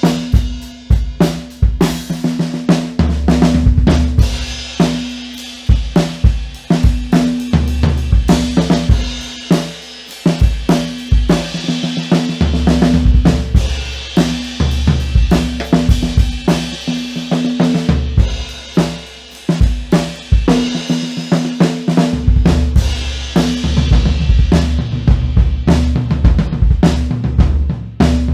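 Drum set played in a continuous groove. A Pearl Reference 22x18 bass drum and 16x16 floor tom boom low and ring out, together with Tama Starclassic Performer birch toms, snare, hi-hat and cymbals. The hits come thick and fast over a steady cymbal wash.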